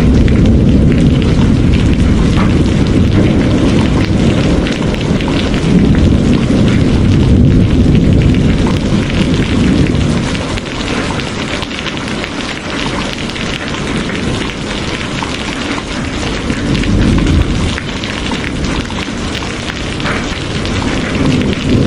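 Steady heavy rain hissing, over a deep low rumble that is loud in the first half and drops back about ten seconds in.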